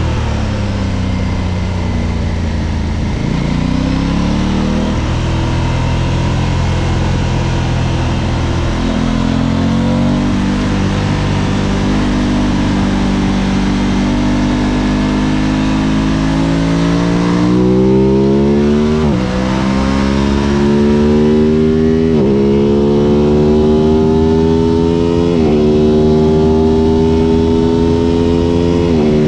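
Aprilia RS660's 659 cc parallel-twin engine running on track. In the first half the revs rise and fall through corners. From about two-thirds of the way in the engine pulls hard through the gears, its pitch climbing and then dropping sharply at each of about four upshifts.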